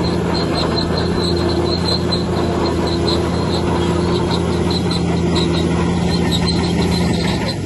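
Bulldozer's diesel engine running steadily, with a high squeal from its steel tracks repeating a couple of times a second. The engine note dips near the end.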